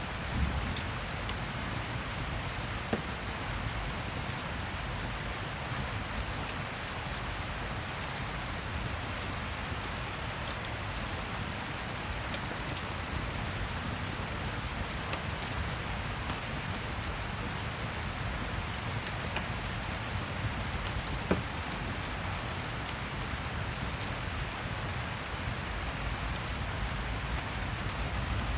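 Steady rain mixed with a fireplace crackling, with two sharper clicks, about three seconds in and again near the twenty-one-second mark.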